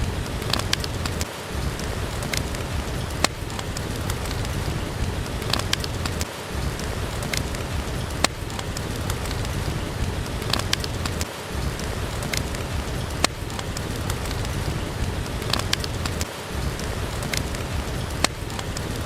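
Steady rain with a low rumble, mixed with the crackling of a wood fire in a fireplace: scattered sharp pops and snaps over the rain. The low rumble briefly drops out about every five seconds.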